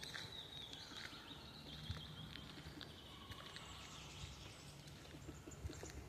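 Faint forest ambience with birds chirping and trilling, and a few soft footsteps or twig snaps.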